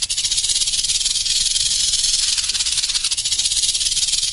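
Snake sound effect: a steady, rapid rattling hiss like a rattlesnake's rattle.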